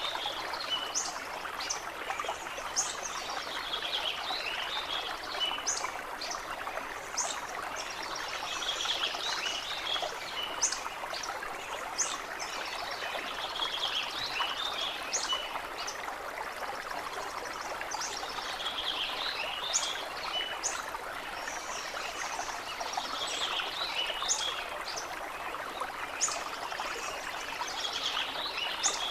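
A stream running steadily over stones while songbirds sing short, high chirping phrases every few seconds.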